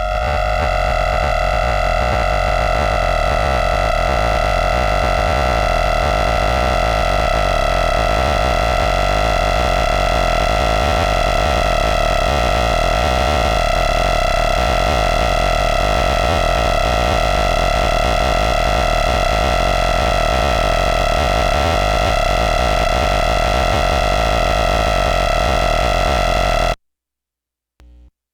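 Synthesizer holding one steady droning tone with a noisy low rumble beneath it, cutting off abruptly near the end.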